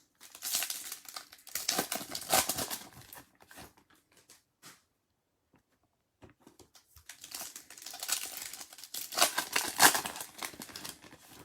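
Trading-card pack wrappers crinkling as packs are torn open and handled, in two bouts with a quiet pause between them.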